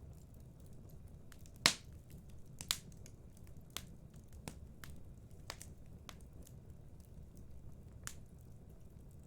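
Wood fire crackling: irregular sharp pops and snaps over a steady low rumble of burning, with the loudest crack about a second and a half in.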